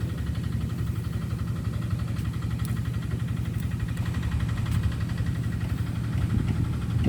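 A small engine running steadily at idle, a low drone.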